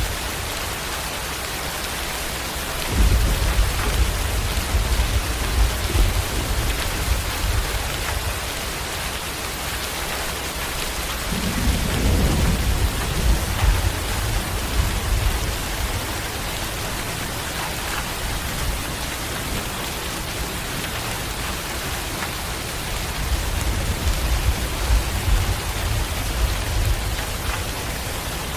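Steady heavy rain hissing without a break, with low rolls of thunder rumbling three times: about three seconds in, in the middle, and near the end.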